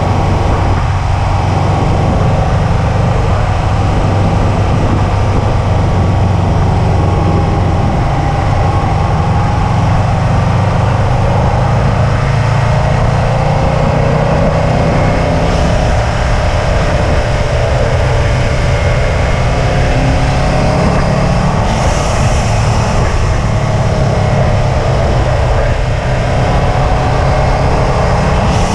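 2005 Subaru WRX wagon's turbocharged flat-four running at a steady, moderate track pace, its engine note slowly rising and falling, over heavy road and drivetrain hum.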